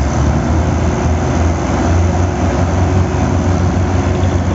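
Tractor diesel engines running loud and steady, working hard to pull a stuck loaded trolley.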